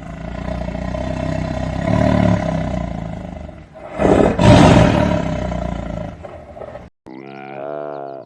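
A long, rough animal call, loudest about four seconds in, followed after a brief break by a shorter, clearer call near the end.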